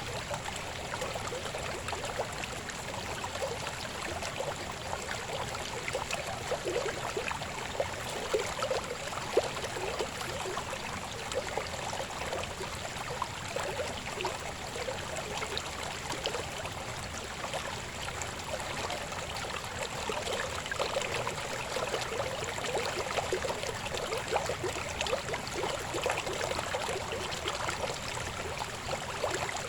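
Babbling river: a steady rush of flowing water full of small gurgles and splashes.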